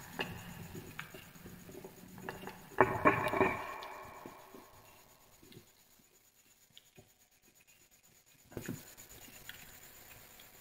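Wood fire crackling, with scattered sharp pops and a louder burst of crackling and scraping about three seconds in that dies away. The fire goes quieter for a few seconds before the crackling picks up again near the end.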